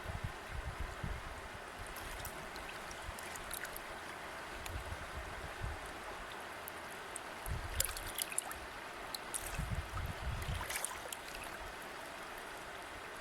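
River or stream water flowing steadily, with small trickles and gurgles and scattered little splashes. A few short low rumbles come and go about eight and ten seconds in.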